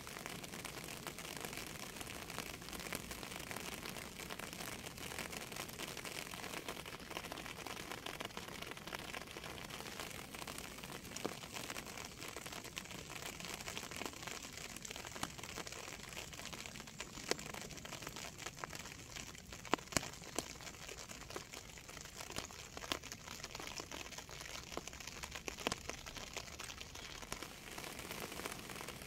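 Steady rain pattering on a surface, a dense crackle of drops, with a few sharper, louder drop hits in the second half.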